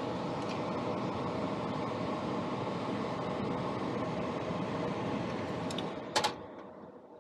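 Furnace fan running steadily, then a sharp click about six seconds in, after which the fan noise dies away.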